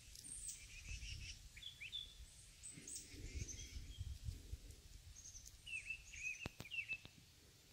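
Birds chirping faintly in short calls, over a low background rumble, with a couple of sharp light clicks near the end as a spark plug's gap is set with a small metal gap tool.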